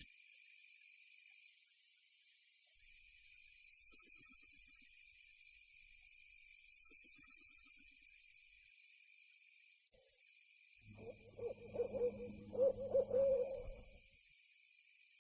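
Steady high-pitched insect drone at two pitches, with a low, wavering animal call lasting about three seconds near the end.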